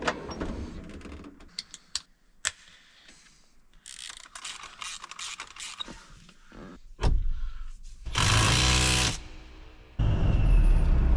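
Hand tools clicking and ratcheting as a new steering wheel is fitted to a tractor's steering column. About eight seconds in comes a loud mechanical burst lasting about a second. In the last second a steady low engine rumble starts.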